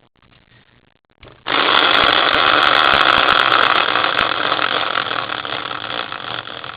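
A prize wheel spun for a team draw, ticking rapidly and densely as it turns. It starts about a second and a half in, then slowly slows and fades into sparser ticks near the end.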